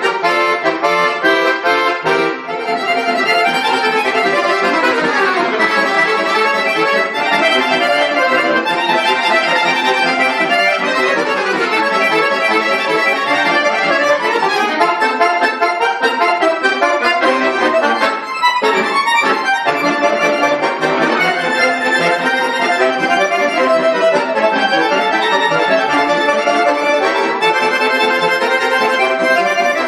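Bayan (Russian button accordion) playing a lively piece, with quick runs sweeping up and down over full chords and a brief break about eighteen seconds in.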